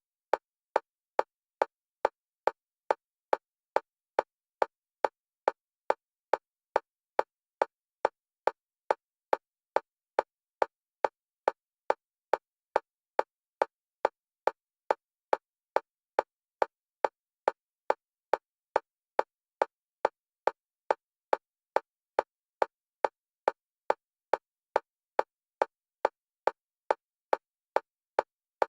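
Fast metronome click at a single pitch, alternating between the left and right stereo channels for EMDR bilateral stimulation. The clicks are short and evenly spaced, about two and a half a second, with silence between.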